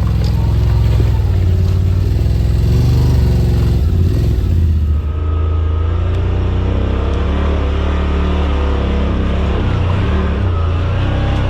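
Side-by-side UTV engine running while driving, a loud steady drone.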